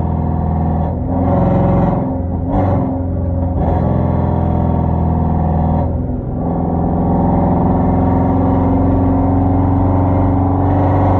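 Hyundai Genesis 5.0 sedan's V8 running through a straight-piped 2.5-inch exhaust with Flowmaster Super 10 mufflers and no catalytic converters, a deep steady drone while driving. The note breaks up and changes pitch a few times between about one and four seconds in and dips briefly around six seconds, then settles back into a steady drone.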